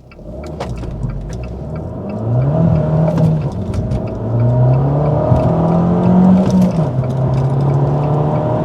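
Turbocharged car engine, heard from inside the cabin, accelerating hard away from a standstill. The engine note climbs, falls back twice as it shifts up, then holds steady.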